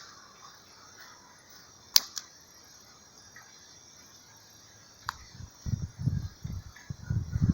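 A single sharp snap or click about two seconds in, with a weaker one just after and another near five seconds. From about five and a half seconds on, a gusty low rumble of wind buffeting the microphone.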